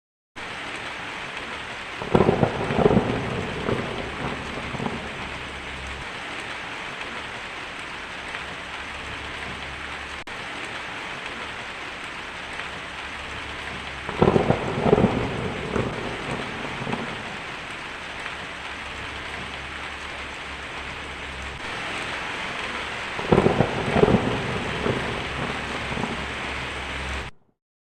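Steady heavy rain, with three rolls of thunder about two, fourteen and twenty-three seconds in, each lasting a few seconds.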